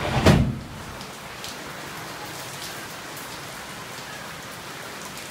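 Rain falling steadily, with scattered sharper drops striking nearby surfaces. A brief thump in the first half-second is the loudest sound.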